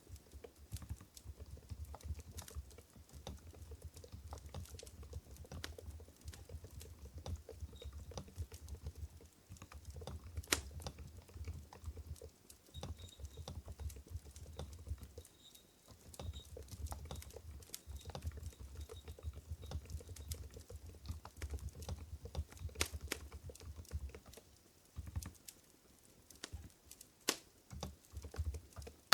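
Continuous typing on an Mstone Groove GV10 keyboard with low-noise Coral 45 g switches: soft, muted keystrokes with a dull thud under each click, in quick irregular runs with a few short pauses.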